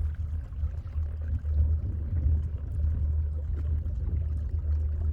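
Small boat under way on calm water: a steady, fluttering low rumble with faint water sounds.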